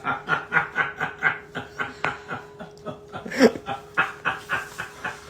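A person laughing after a joke's punchline: a long run of quick snickers, about four to five a second, with one louder burst partway through.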